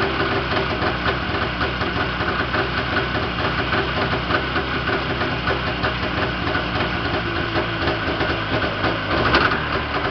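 Yamaha Enticer 340 snowmobile's freshly rebuilt two-stroke twin engine idling steadily, with one brief louder burst near the end.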